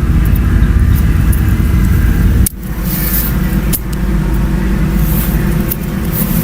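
Electric razor buzzing steadily as it is run over the chest hair, a loud low hum that dips briefly about two and a half seconds in and again a second later, with faint crisp ticks of hair being cut.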